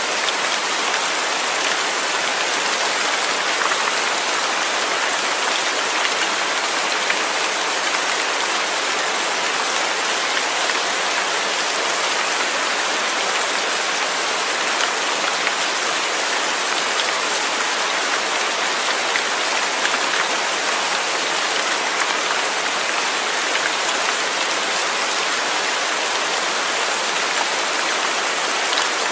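Steady rain falling, a continuous even hiss of drops hitting a surface with no let-up or breaks.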